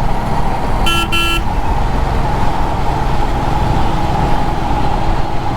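Royal Enfield Himalayan motorcycle riding in heavy city traffic: a steady engine and road rumble, with two short vehicle horn toots about a second in.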